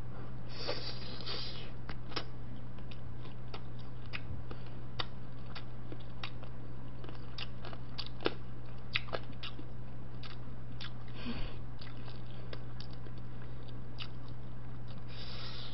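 A person chewing and biting boiled chicken eaten by hand, with many short mouth clicks and smacks scattered through, over a steady low hum.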